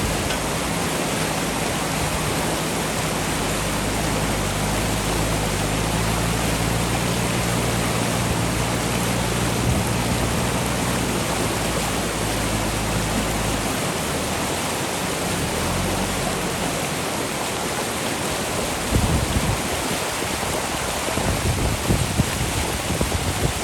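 Fast-flowing river rushing steadily, with the JCB backhoe loader's diesel engine running low underneath for the first two-thirds, then fading away. Irregular low rumbles come in near the end.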